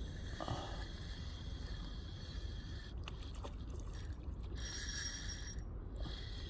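Steady low wind rumble on the microphone, with a few light clicks about three seconds in and a brief scrape about five seconds in, from handling the rod and reel while a hooked fish is played in.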